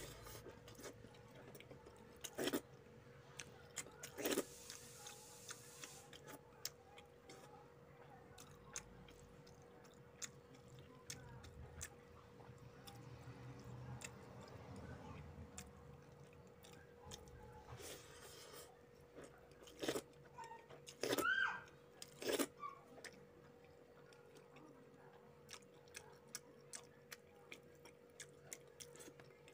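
Close-up mouth sounds of a man eating rice and fish curry by hand: wet lip smacks and chewing clicks, irregular and frequent, with a cluster of louder smacks about two-thirds of the way through, over a faint steady hum.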